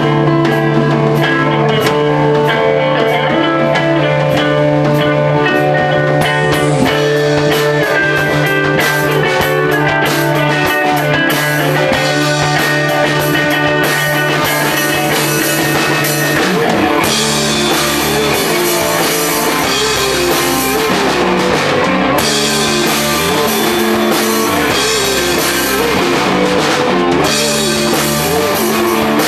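Instrumental passage of a psychedelic rock song: guitar lines ring out over a held low bass note, then about halfway through the drums and cymbals come in harder and the bass starts moving, filling out the band sound.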